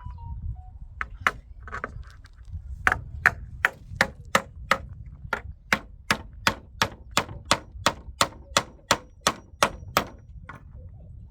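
Repeated sharp strikes of a hard tool or object: a few scattered hits, then a steady run of about twenty at roughly three a second, which stops shortly before the end.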